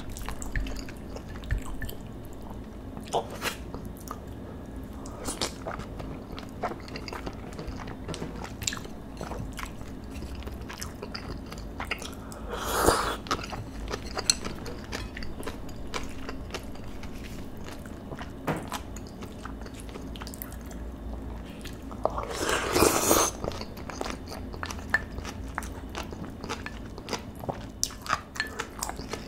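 Close-miked chewing of marinated beef bulgogi and rice: wet mouth sounds and many small clicks, with two louder, longer noises about thirteen and twenty-three seconds in.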